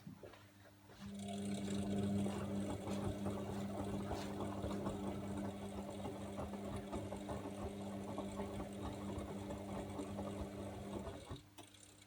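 AEG Öko_Lavamat 74780 washing machine turning its drum in the wash phase: the motor starts about a second in with a steady hum, laundry and water sloshing over it, and stops near the end, as in the drum's on-and-off tumbling rhythm.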